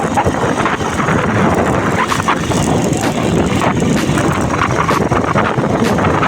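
Wind noise buffeting the microphone on a moving Honda Bros 150 motorcycle, with its single-cylinder engine running underneath.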